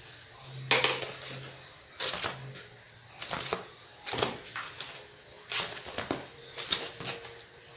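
Sharp plastic clacks and knocks of vacuum cleaner parts and attachments being handled and fitted together, about one a second, with rustling between them.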